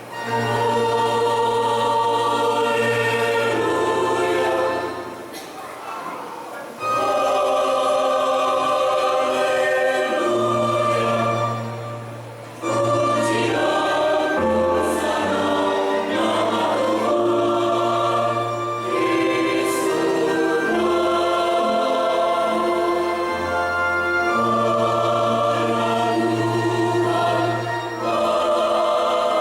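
Mixed church choir singing a hymn in parts over sustained organ bass notes, pausing briefly between phrases about five and twelve seconds in.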